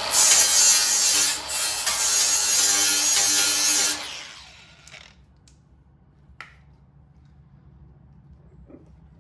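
Angle grinder with a flap disc grinding down spot welds on a steel car body panel for about four seconds, then switched off and winding down. A few light clicks follow.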